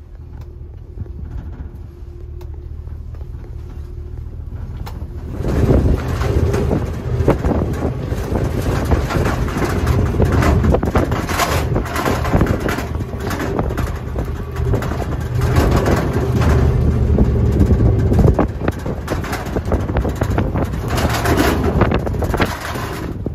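Open-air 4x4 tour truck on an off-road ride: a steady low engine hum, then about five seconds in the noise jumps as the truck picks up speed, and loud wind buffeting the microphone covers the rest.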